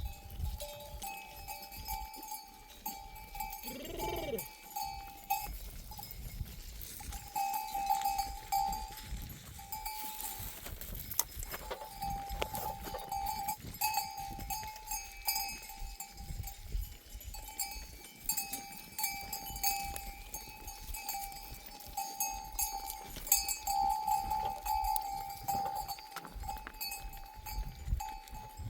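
Neck bells on a grazing flock of sheep ringing and clinking on and off, with a single bleat about four seconds in.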